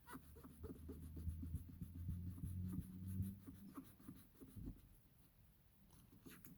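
Quick, faint scratchy rubbing strokes and small clicks from hand work on a shoe being prepped for painting, over a low steady hum that stops about three and a half seconds in.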